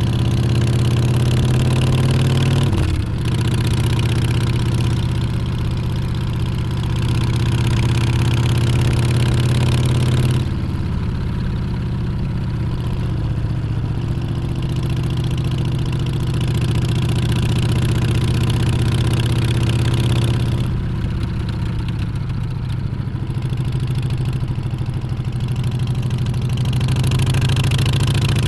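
Harley-Davidson Street Bob 114's V-twin engine running under way. The revs climb over the first few seconds, then a gear change comes about three seconds in. After that it runs steady, with the throttle eased a little twice.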